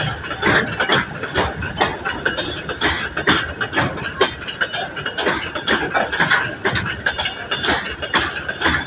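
Train passing, its wheels clattering over the rails in a fast, uneven run of clicks and knocks.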